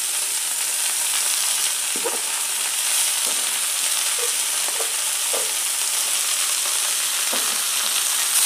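Hot oil sizzling in a kadai as chopped chansur (garden cress) greens are tipped in onto frying potatoes, with a few short knocks and scrapes of the spatula against the bowl and pan.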